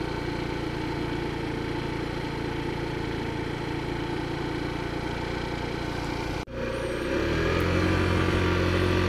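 Small 50cc scooter engine running steadily at idle. About six and a half seconds in there is an abrupt cut, after which the engine is heard again, louder, with a steady low hum.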